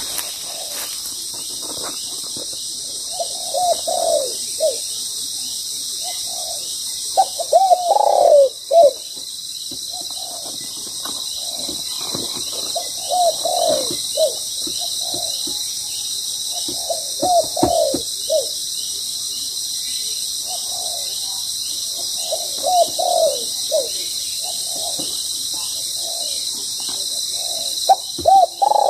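Spotted doves cooing, a phrase of several coos every four to five seconds. A steady high insect drone runs underneath.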